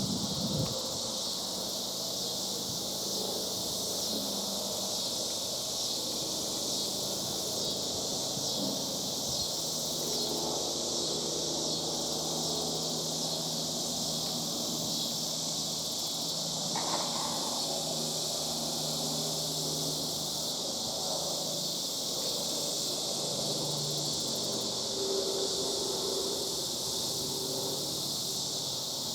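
Cicadas droning in chorus: a steady, unbroken high-pitched buzz.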